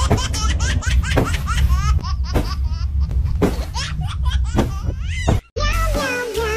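A person laughing, a quick run of high-pitched giggling bursts that stops suddenly about five and a half seconds in. Music starts right after.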